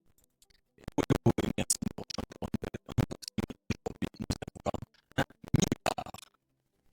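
A rapid, irregular run of sharp clicks and scratchy hits lasting about five seconds, stopping abruptly about a second before the end.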